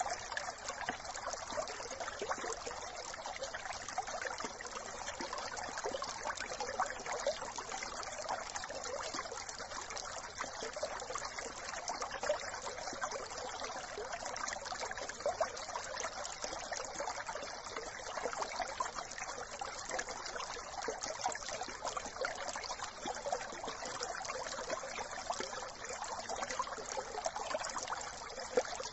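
Small brook babbling and trickling over stones, a steady, even rush of water with constant fine splashing.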